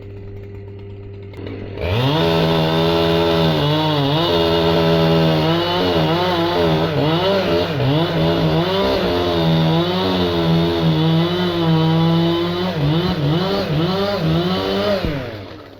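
Two-stroke chainsaw idling, then opened up to full throttle about two seconds in. Its engine note dips and recovers again and again as it is worked under load, then falls back just before the end.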